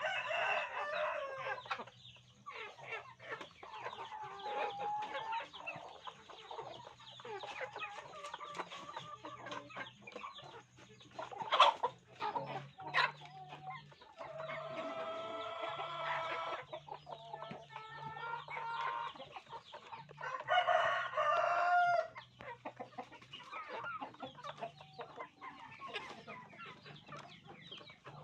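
Hens clucking and calling over dense short taps as they feed. Two longer, louder calls stand out, about fifteen and twenty-one seconds in.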